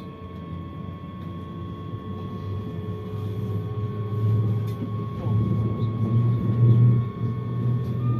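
Train running, heard from inside the carriage: a low rumble that grows louder over the seconds, with a steady high whine above it.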